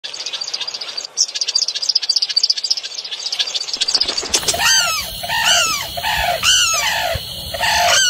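Birds calling: a fast, high-pitched chatter of short chirps for about four seconds, then a louder series of calls that rise and fall in pitch, repeated about once a second.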